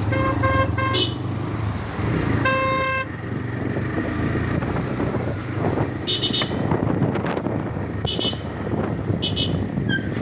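TVS Raider 125 motorcycle's single-cylinder engine running on the move, with a quick run of short horn beeps in the first second and one longer beep about two and a half seconds in. Short high-pitched chirps come through now and then from about six seconds on.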